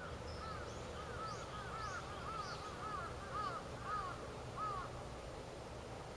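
A bird calling a rapid series of short, arched notes, two or three a second, that stops about five seconds in, over a steady low rumble.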